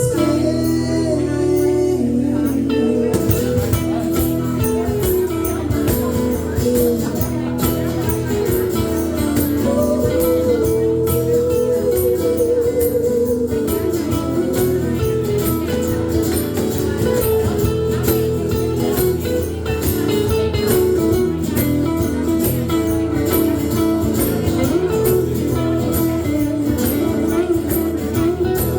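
A band playing a rock song on guitar, with a steady drum beat that comes in about three seconds in.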